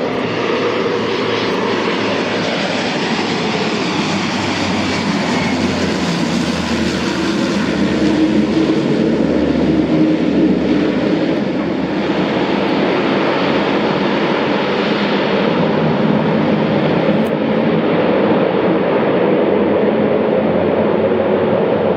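Aircraft engine running loudly and steadily with a broad rush of noise, the hiss growing brighter partway through and then easing.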